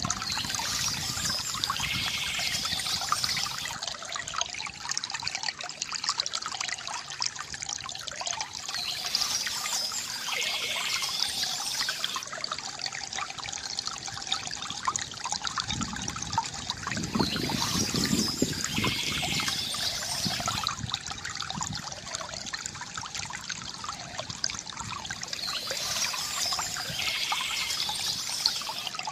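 Water trickling and pouring from a bamboo fountain spout, running continuously, with a fuller stretch of pouring that comes back about every eight seconds.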